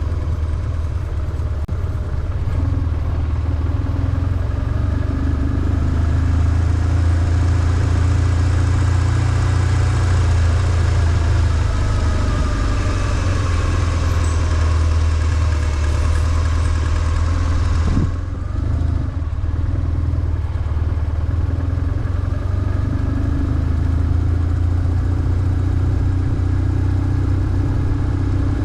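BMW R1150GS boxer twin engine running on the move, steady throughout, with a short sudden dip about two-thirds of the way through.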